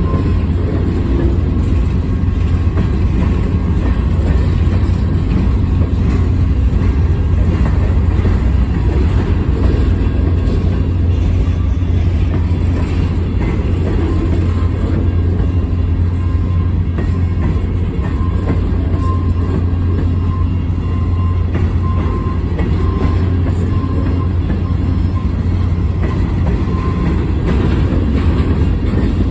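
Freight train rolling past, its cars making a steady low rumble.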